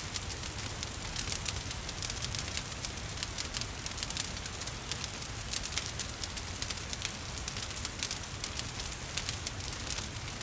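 Wood fire crackling with frequent sharp pops and snaps over a steady hiss of rain.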